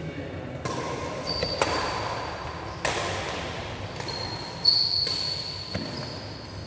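Badminton rally in a sports hall: sharp racket-on-shuttlecock hits about a second apart, with high-pitched shoe squeaks on the court floor.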